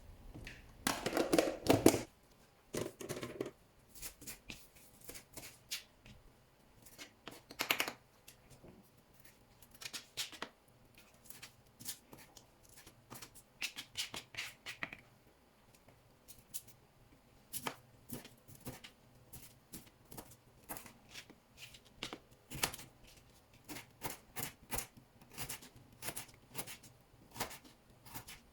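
Small handling sounds: a long run of light clicks, taps and rustles, with a louder rustle about a second in.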